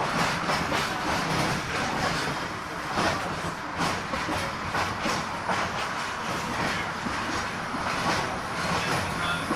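Brisbane Phoenix FM tram 548 running along the track, its wheels clicking over rail joints at irregular intervals over a steady low hum and running noise.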